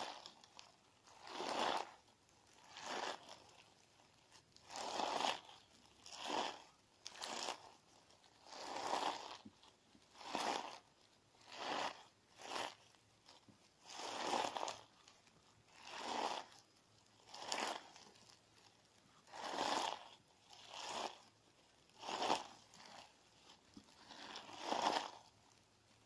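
Clear slime full of crunchy sand being pressed and worked, giving a gritty crunch in a slow, even rhythm, about one every second and a half.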